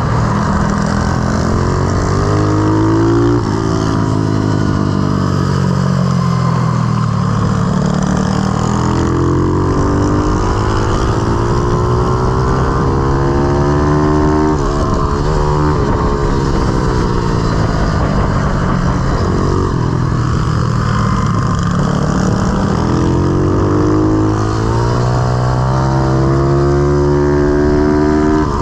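Pitbike single-cylinder four-stroke engine being ridden hard, its pitch climbing again and again under throttle and dropping back off, about four or five times.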